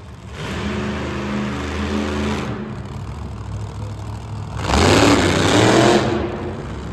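Monster truck engine running at a steady speed, then revving hard for about a second, the loudest part, before settling back.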